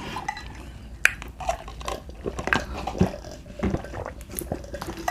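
Eating sounds close to the microphone: chewing, with a scattered series of short crisp clicks and crunches.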